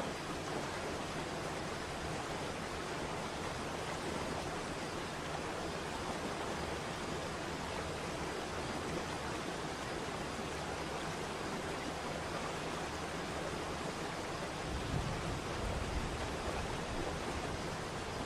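Waterfall: a steady, even rush of falling water. About three-quarters of the way through, a deeper low rumble comes in beneath it.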